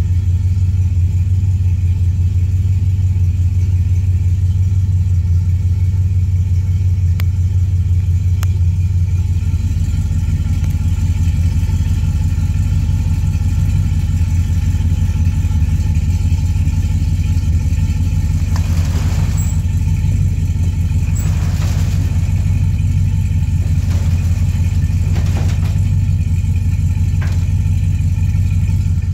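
Ford 289 small-block V8 with Fitech throttle-body fuel injection idling, heard as a steady low exhaust rumble behind the car. A few short bursts of hiss come in the second half.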